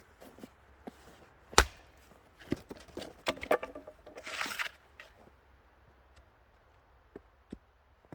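An axe chopping kindling wood: one sharp chop about a second and a half in, then a clatter of knocks and a brushy rustle of twigs and small wood pieces, and two light knocks near the end.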